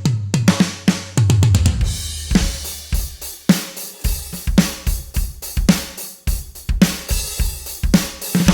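Jobeky electronic drum kit with Arborea Mute cymbals being played freely, with kick, snare, hi-hat and cymbal hits. There are quick runs of kick-drum strokes, about a second in and again near the end.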